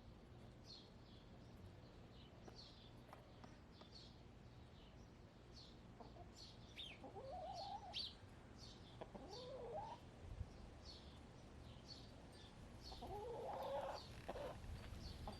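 Backyard hens clucking: three drawn-out calls in the second half, over faint, quick chirping from small wild birds that keeps on throughout.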